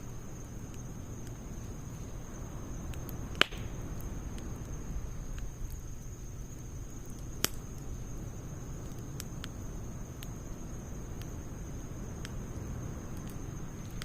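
Wood fire burning in a steel fire stand, a low steady rustle of flame with scattered small crackles and two sharp pops, one a few seconds in and one about halfway through.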